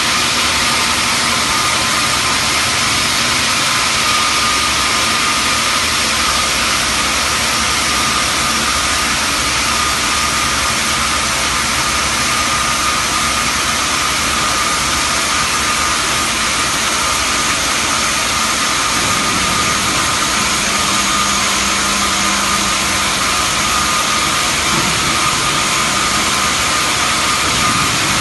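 A Xianda CHJJ-1500 CNC band saw cutting marble: a steady, loud machine noise with a thin high tone running through it.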